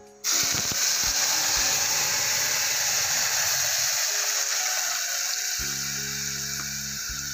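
Wet ground masala paste hitting hot tempering oil in a pan: a loud sizzle bursts in just after the start and slowly dies down. Background music joins about two-thirds of the way through.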